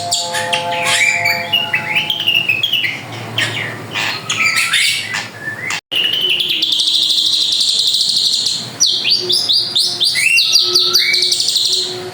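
Drongo singing a busy, varied run of whistles, chirps and gliding notes, with a long rapid trill in the middle. The song breaks off for an instant about six seconds in, then resumes.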